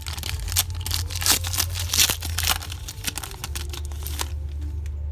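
Foil trading-card pack wrapper torn open and crinkled by hand: a dense run of sharp crackles that stops about four seconds in.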